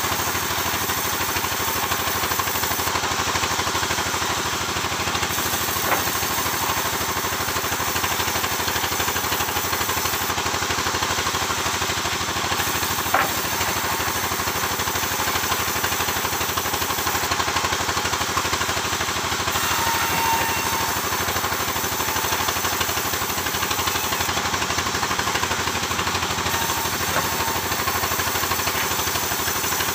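Sawmill engine running steadily throughout, with a couple of short sharp knocks.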